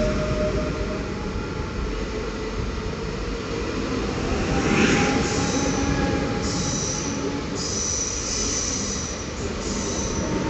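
Passenger train rolling along the station track with a steady rumble; high-pitched wheel squeal comes and goes from about halfway in.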